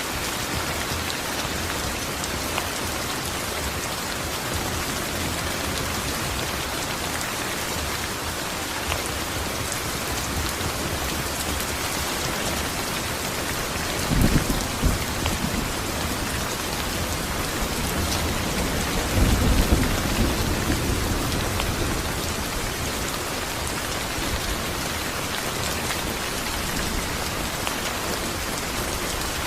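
Steady rain falling, an even hiss, with thunder rumbling twice: a sudden short rumble about halfway through and a longer, rolling rumble a few seconds later.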